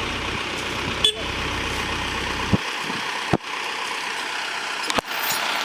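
Tractor engine running steadily, with a few sharp knocks or clicks over it.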